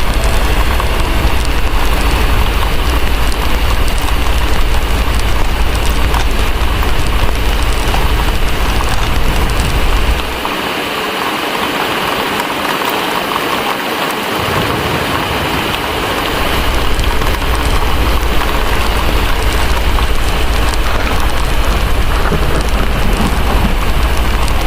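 Steady heavy rain over a deep low rumble; the rumble drops away for about five seconds midway, then returns.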